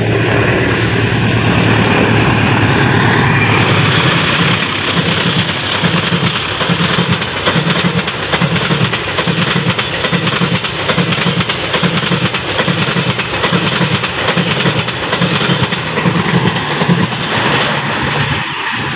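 Mutiara Selatan passenger train, hauled by a diesel-electric locomotive, passing close by at speed. The locomotive's engine drone comes first, then the carriages' wheels clack over the rail joints in a steady rhythm, and the sound begins to fade as the last car goes by near the end.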